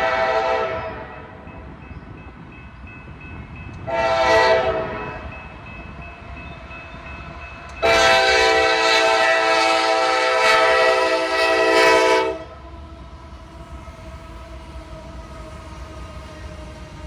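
Diesel locomotive's multi-chime air horn: a blast fading out about a second in, a short blast at about four seconds, then a long blast of about four and a half seconds, the short-then-long ending of the grade-crossing signal. A steady low rumble of the train runs underneath.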